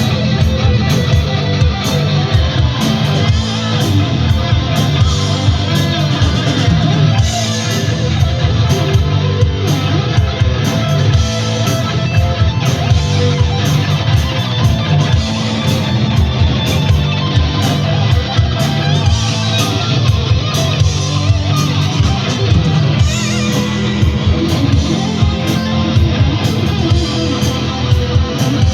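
Guitar played hard and fast in a heavy rock style: a dense, driving stream of rapid picked or strummed strokes over sustained low notes, loud and without a break.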